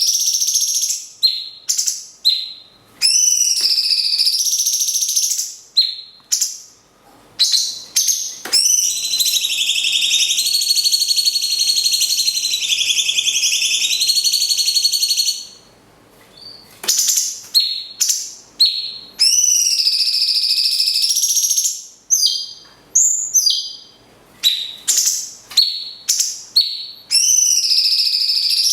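Cucak cungkok and lovebird singing back and forth: loud, high, rapidly repeated calls with sweeping notes. About eight seconds in comes one long unbroken trill lasting some seven seconds, and short phrases with brief pauses fill the rest.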